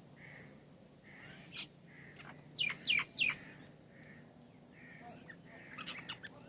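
Wild birds calling: three loud, sharply falling chirps in quick succession about two and a half seconds in, and a quick cluster of chirps near the end, over fainter soft calls repeating throughout.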